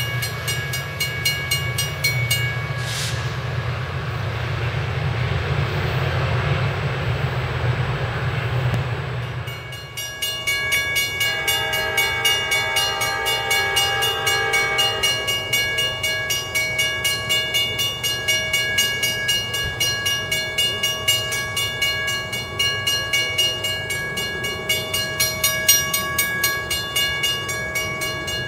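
MARC MP36PH-3C diesel locomotive passing with a low engine rumble and rail noise. About ten seconds in, the sound switches to a steady ringing bell struck about twice a second, typical of a grade-crossing bell, and from about twelve to fifteen seconds an approaching train's horn sounds a chord of several tones.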